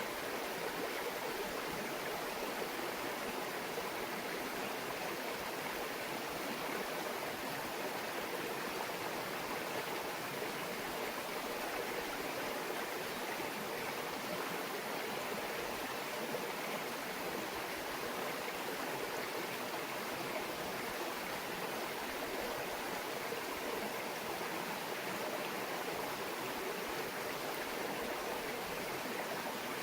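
A small mountain stream babbling steadily over rocks, an even rush of running water with no breaks.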